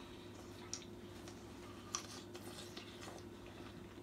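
Faint chewing of a bite of smoked pineapple, with a few soft wet mouth clicks about a second and two seconds in, over a steady low hum.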